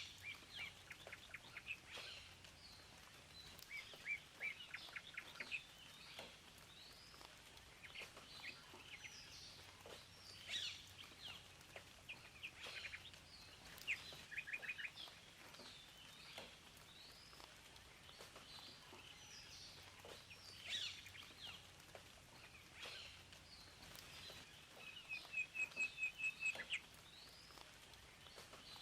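Several wild birds singing and calling, with short rapid trills mixed in; a run of about ten quick repeated notes near the end is the loudest.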